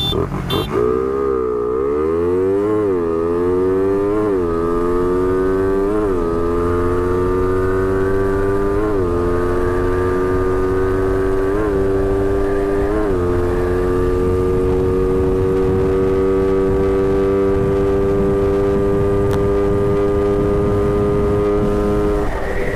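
Suzuki Raider Fi 150 motorcycle engine at full throttle in a drag launch. It revs up and upshifts through the gears, each shift a brief dip in pitch, then holds a steady high pitch flat out at top speed until it drops near the end.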